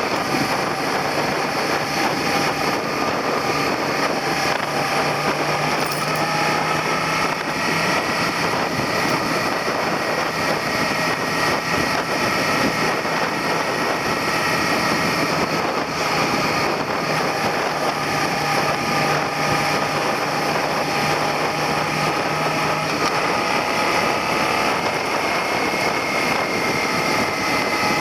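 Suzuki SV400 motorcycle's V-twin engine running while ridden at a steady pace, its pitch holding nearly even, over a constant rushing noise.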